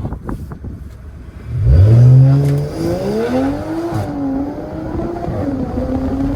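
Straight-piped, catless BMW 540i turbocharged inline-six accelerating hard from a standstill. A loud engine note rises sharply about a second and a half in and keeps climbing, then settles into a steadier, high drone.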